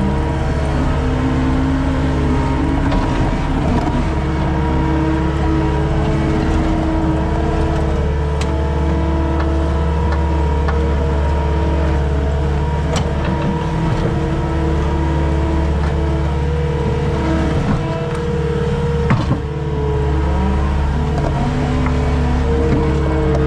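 Skid steer engine running steadily while working, with a single sharp knock about three-quarters of the way through.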